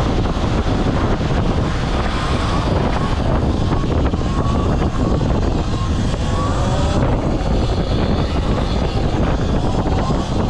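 Wind rushing over the microphone of a Talaria electric dirt bike on the move, with the motor's faint whine rising a few times in the middle as it speeds up.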